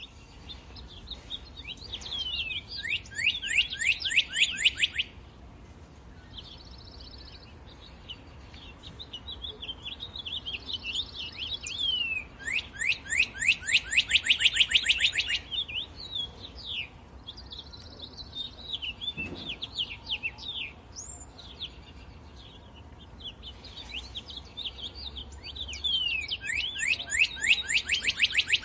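Songbirds singing: three times, roughly twelve seconds apart, a bird delivers a loud phrase of fast, repeated downward-sweeping notes, with softer scattered chirps and whistles in between.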